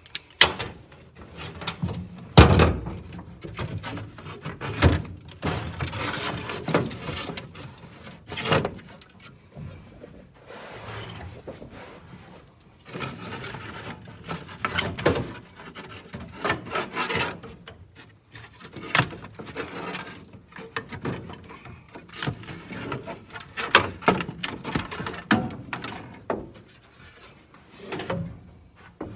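Irregular knocks, clunks and scraping from hand work on the car's floor, as floor pieces are worked loose and moved aside.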